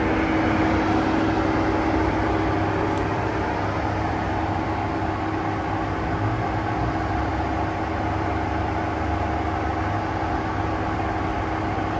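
A vehicle's engine running steadily: a constant hum with a held tone, no revving.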